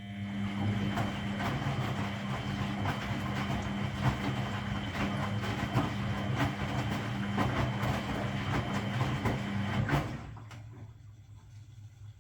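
Washing machine drain pump running: a steady hum with gurgling and rattling as water and air are pumped out. It switches on suddenly and cuts off after about ten seconds.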